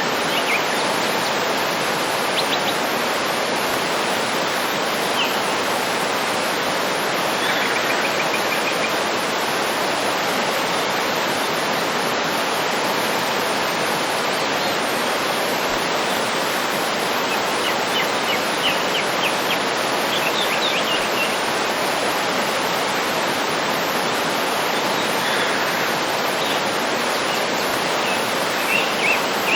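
Waterfall running, a steady rush of falling water, with brief bird chirps now and then above it.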